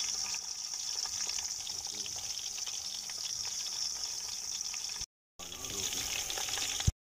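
Steamed whole chickens frying in hot oil in an aluminium degchi: a steady sizzle with fine crackling, cut off briefly about five seconds in.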